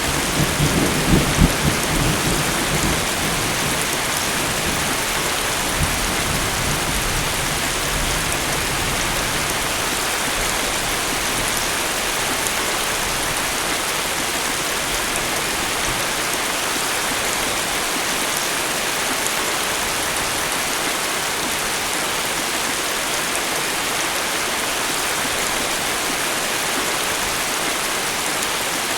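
Steady rain falling in a thunderstorm, an even hiss, with the tail of a thunder rumble dying away over the first two to three seconds.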